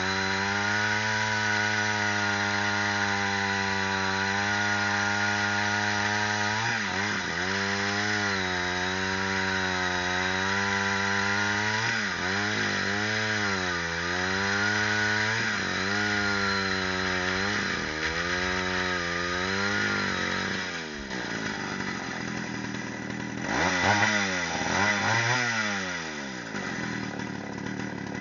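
Ural chainsaw's two-stroke engine running fast, its pitch dipping briefly several times and recovering. About two-thirds of the way through it drops, is revved up loudly twice, then falls back toward idle near the end.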